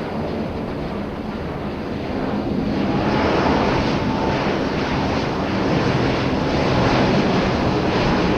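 Airbus A350 XWB airliner's Rolls-Royce Trent turbofans heard in flight, a dense jet noise that grows louder about three seconds in, with a faint steady whine over it.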